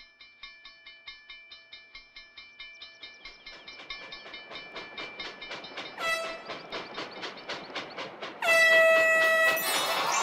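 Cartoon train sound effect: a train chugging closer, its rhythmic beat growing steadily louder, with a short whistle toot about six seconds in and a longer, louder toot near the end.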